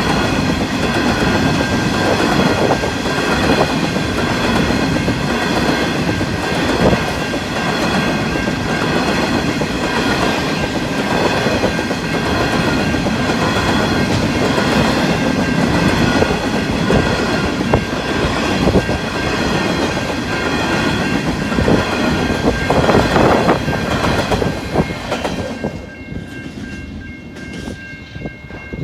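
Grain train wagons rolling past with a steady clickety-clack of wheels on rail joints, over steady ringing from the level crossing bells. The train noise drops away about 26 seconds in, leaving the bells ringing.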